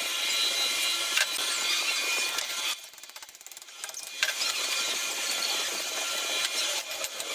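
A woodworking power tool running steadily, stopping for about a second and a half around three seconds in, then running again.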